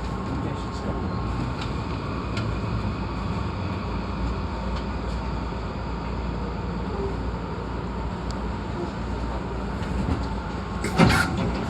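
Interior sound of a Hankyu 8300-series electric train on its final approach into the terminus: a steady running rumble with a faint steady tone and a few scattered clicks. Near the end comes a burst of louder clattering and hiss.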